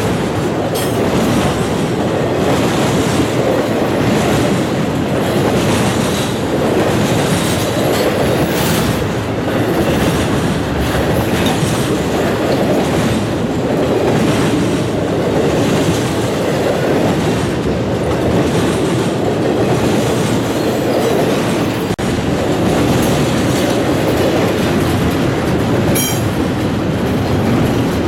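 Railroad cars rolling steadily past, their steel wheels clicking over the rail joints. A brief high wheel squeal comes near the end.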